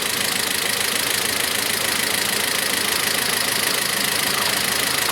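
Toyota 2TR-FE 2.7-litre four-cylinder petrol engine idling steadily, with its VVT-i oil control valve removed and oil barely reaching the cylinder head: a sign of low oil supply to the VVT-i system.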